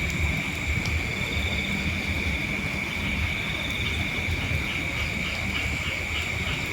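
Insects, likely crickets, trilling steadily in a high, continuous chorus, with a faster pulsing trill above it. A low, uneven rumble of wind on the microphone lies underneath.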